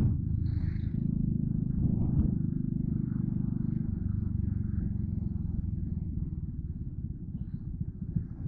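Yamaha Crypton R underbone motorcycle's small single-cylinder engine running steadily while riding. Near the end it gets a little quieter and the firing beat turns more uneven.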